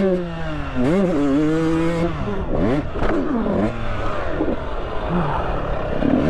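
Two-stroke dirt bike engine, a Honda CR500R, held at high revs for about two seconds, then chopped and blipped irregularly as the bike goes over a jump, with a clatter near the middle as it cases the landing.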